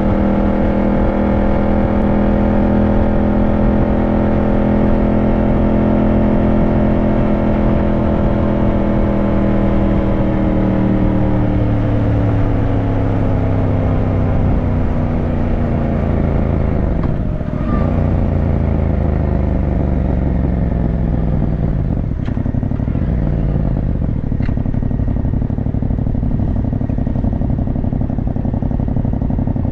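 Yamaha motorcycle engine running under way, holding steady revs, then falling in pitch as the bike slows from about ten seconds in. The engine note breaks briefly about 17 seconds in and again about 22 seconds in, then carries on lower.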